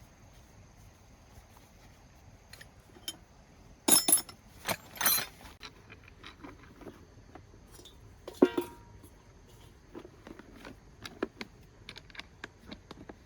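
Metal hand tools or parts clinking and rattling against each other: a cluster of sharp clinks about four seconds in, one loud ringing clank about eight seconds in, then scattered light ticks.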